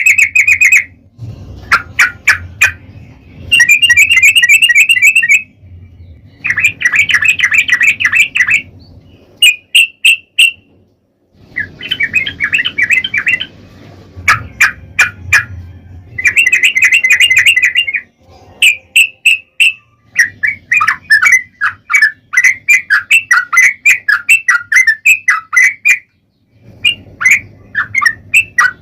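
Yellow-vented bulbul (trucukan) singing in long, fast chattering runs, bursts of one to two seconds with short pauses between. A low hum sits under many of the phrases.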